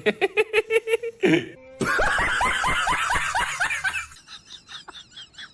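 Rhythmic snickering laughter in quick short pulses, then a louder stretch of laughing from about two seconds in, trailing off into fainter, quicker pulses near the end.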